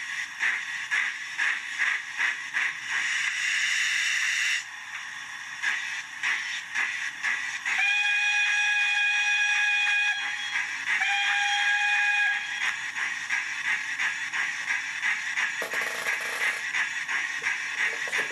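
Sound decoder of an Accurascale J68 0-6-0T steam tank engine model playing through its small speaker. It gives a steady run of exhaust chuffs, with a louder hiss about three seconds in. Then come two whistle blasts, a long one and a shorter one, over the continuing chuffs.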